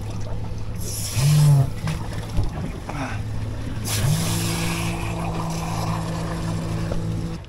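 Outboard motor running steadily at low speed, its tone stepping up about four seconds in to a slightly higher, steady drone as the throttle is opened, with brief rushes of wind noise.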